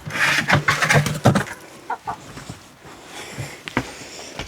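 Backyard hens clucking in short separate calls, with a burst of scuffing and rustling in the first second and a half.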